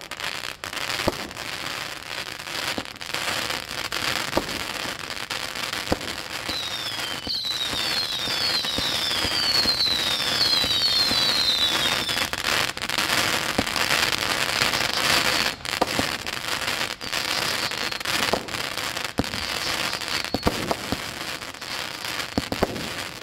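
Consumer firework cakes firing: sharp pops of shots launching and breaking over a continuous crackle. About a quarter of the way in, a quick series of short falling whistles runs for several seconds.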